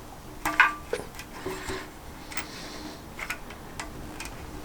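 Light, irregular metallic clicks and taps, about seven over a few seconds, from small hardware (bolt, spacer and washers) being handled while fitting an oil tank's rubber-mounted fastening.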